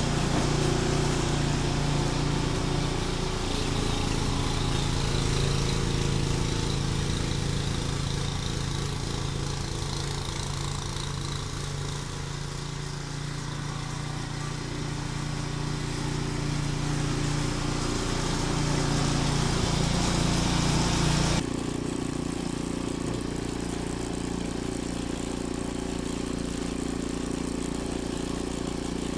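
Ariens Deluxe 28 snowblower's single-cylinder engine running steadily with a constant low hum. Its sound changes abruptly about 21 seconds in, going duller and less bright.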